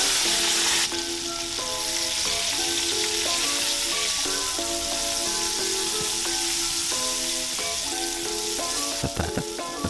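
Diced carrots sizzling in hot oil in a nonstick pan as they are stirred with a silicone spatula, the sizzle loudest in the first second, with background music playing throughout; a few light spatula knocks near the end.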